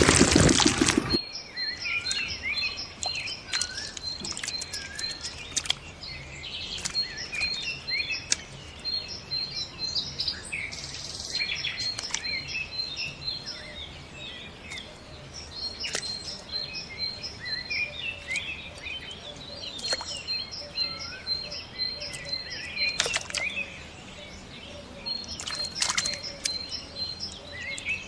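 A loud rush of pumped water and engine noise stops about a second in. Small birds then chirp, some giving quick runs of high chirps at one pitch and others varied calls, with a few sharp clicks now and then.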